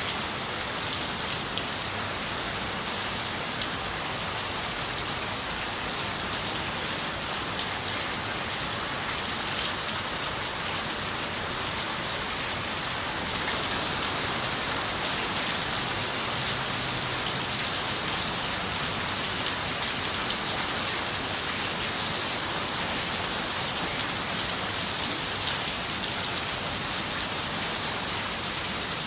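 Steady rain falling on a window pane, a dense hiss with scattered small drop taps; it turns slightly heavier about halfway through.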